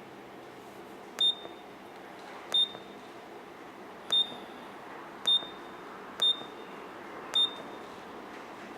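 Control-panel keypad of an MEP Shark 332 bandsaw beeping as its buttons are pressed to step through the setup parameters: six short, high beeps about a second apart.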